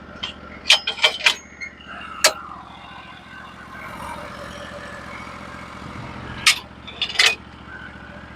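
Portable sawmill engine idling with a steady low hum, over a series of sharp knocks and clanks: several close together in the first couple of seconds and two more near the end.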